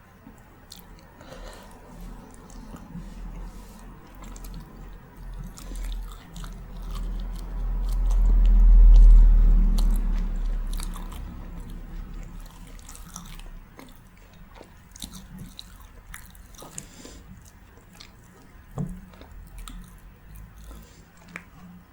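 Close-miked chewing and biting of a rice-and-curry meal, with many small wet mouth clicks. A deep low rumble swells up in the middle and fades away.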